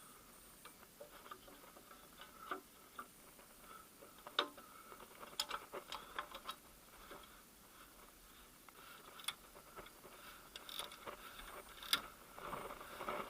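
Scattered faint clicks and light knocks of metal parts and hand tools being handled while engine timing-belt components are fitted, with a few sharper taps.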